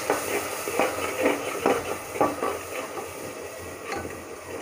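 Tomato and onion masala sizzling in a pressure cooker while a metal spatula stirs and scrapes the pot, in irregular strokes about twice a second over a steady frying hiss. The tomato paste is being fried into the masala.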